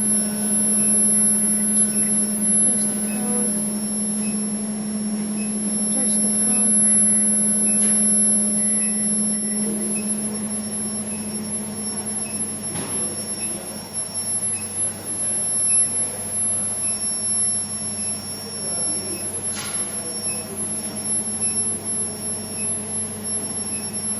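JLZ-70KW induction melting furnace running: a steady high-pitched whine over a low electrical hum.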